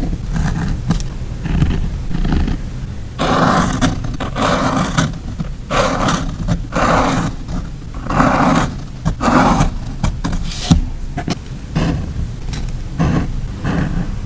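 Close-miked handling of stickers and paper while decorating a journal: a series of rough rustling, scraping strokes, each half a second to a second long, with small clicks and taps between them.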